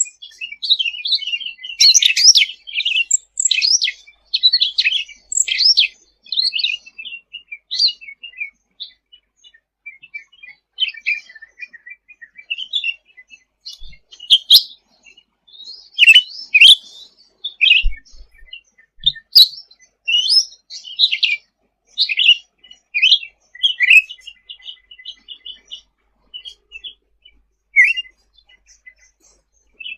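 Cucak ranting (cucak rante) singing: a run of high-pitched chirps and quick trills in short bursts, thinning out briefly a little before the end.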